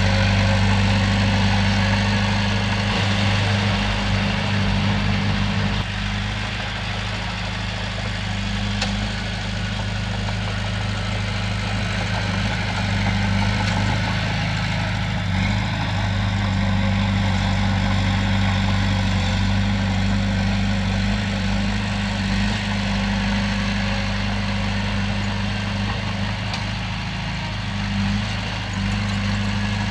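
Heavy diesel engine of an earthmoving machine running steadily at an even, low hum.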